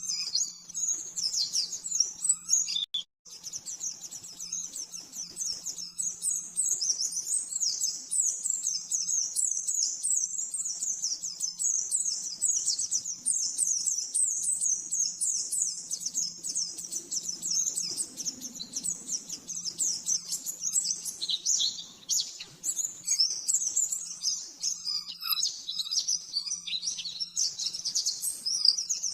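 White-eye (pleci) singing a fast, unbroken run of high twittering chirps, the rapid 'nembak' song used as a tutor recording for caged birds. The song stops for a moment about three seconds in, then carries on.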